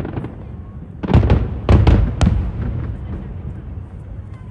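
Aerial fireworks shells bursting: a quick cluster of sharp bangs about a second in and another just before two seconds, with a low rolling rumble and echoes dying away between and after them.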